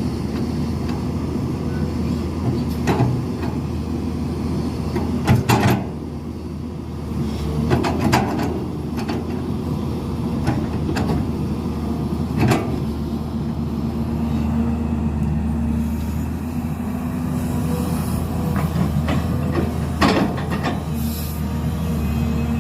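Heavy diesel construction machinery running steadily, with sharp metallic clanks and knocks every few seconds.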